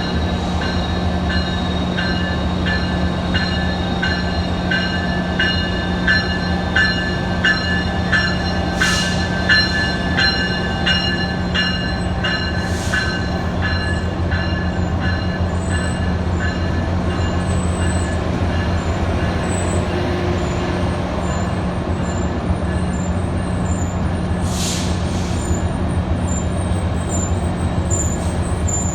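A locomotive bell rings about twice a second over the steady hum of an idling diesel locomotive, fading out about halfway through. Short hisses of released air come three times. A fainter, higher ringing repeats in the second half.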